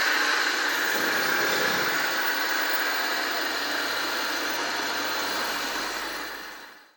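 Steady mechanical running noise, like small model motors and gearing, that fades out near the end.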